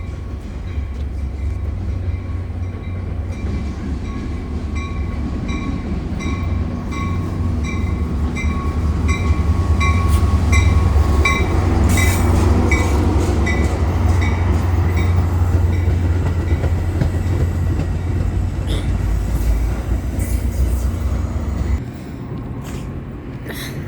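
Metra diesel commuter train running through the station, its heavy locomotive rumble growing to its loudest in the middle and dropping off sharply near the end. For the first half a bell rings steadily about twice a second over the rumble.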